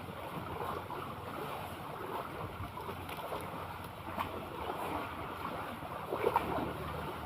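Sea waves washing and wind buffeting the microphone, with small irregular splashes and crackles of water throughout.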